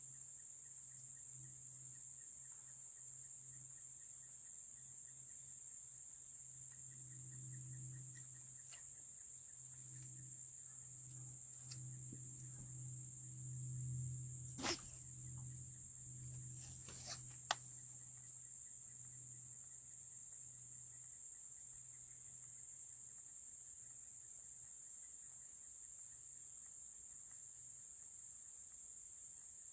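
Steady, high-pitched chorus of insects, with two or three sharp clicks a little past halfway.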